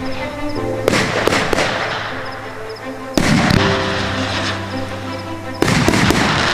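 A 60-tube fireworks battery firing: sharp bangs with crackling trails, the biggest about one, three and five and a half seconds in. Background music plays underneath.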